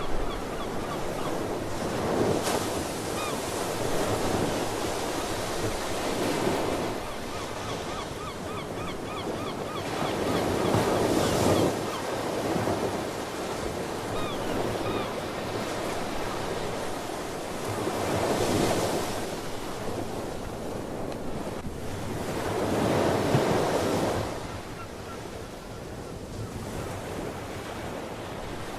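Ocean surf, waves breaking and washing in with a swell every few seconds, and faint short calls of sea birds now and then.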